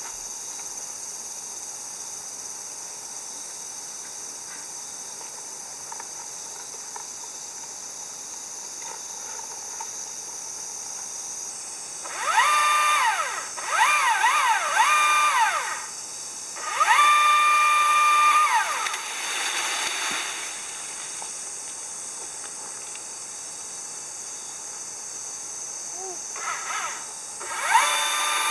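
A small electric power tool run in several short bursts, its whine quickly rising, holding and falling each time, with a couple of quick on-off pulses. Under it runs a steady high buzz of insects.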